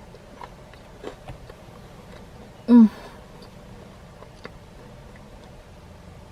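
Faint wet mouth clicks and smacks of eating, then near the middle one short, loud vocal sound from the eater that drops in pitch.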